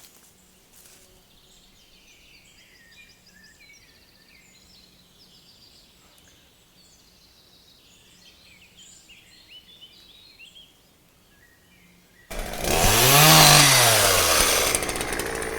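Quiet woodland with small birds chirping faintly, then about twelve seconds in a chainsaw starts up loudly, revs up and back down once, and keeps running.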